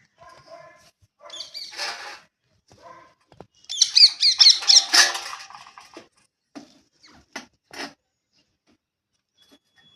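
Birds chirping and squawking in short, scattered bursts. The loudest is a quick run of repeated high notes about four seconds in, followed by a few short sharp calls.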